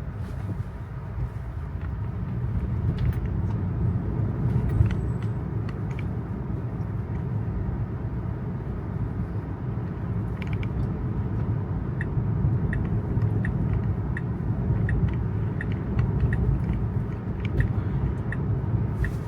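Road and tyre noise inside an electric Tesla on wet pavement: a steady low rumble. In the second half a turn signal ticks evenly, a little over once a second.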